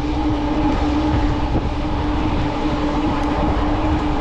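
Fat-tire electric bike riding at speed on a paved road: steady tyre and wind noise with a low rumble, and a steady hum held under it.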